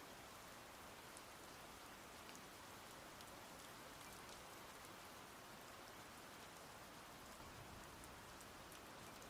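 Faint, steady rain with a light patter of scattered drops.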